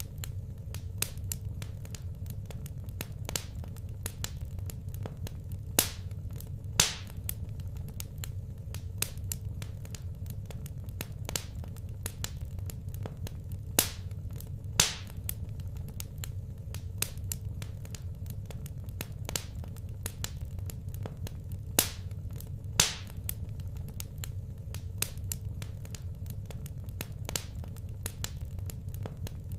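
Wood fire crackling in a fireplace: irregular sharp pops and snaps, a handful much louder than the rest, over a steady low hum.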